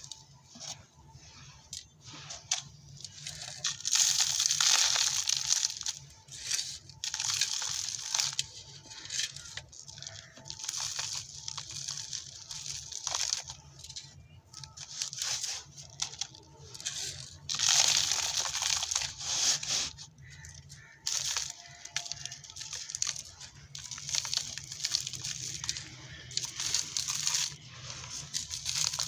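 Dry, dusty red dirt and sand-cement chunks being crumbled and crushed, giving irregular crisp crackling and crunching, with two louder stretches of crushing, about four seconds in and again around eighteen seconds.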